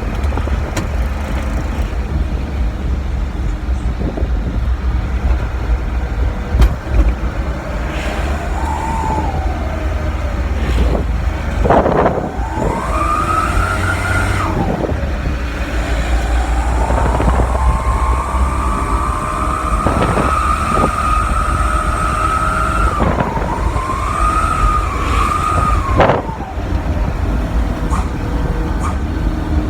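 Truck engine running with a homemade 'wolf' exhaust, revved several times so the exhaust howls: a whine that rises, holds for a few seconds and falls away with each rev, over a steady low engine rumble, with a sharp crack as the longer revs drop off.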